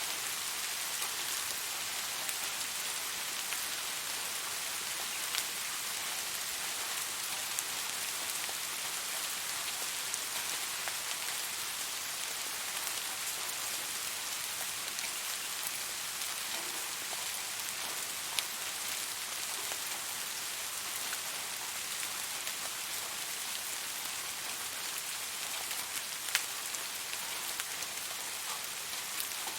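Steady rain falling, an even hiss with a few sharper individual drop ticks here and there.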